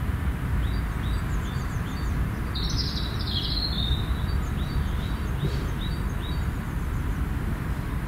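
Garden birds singing: one bird gives runs of short high notes, two or three a second, and a louder, busier song phrase comes in about three seconds in, all over a steady low rumble of background noise.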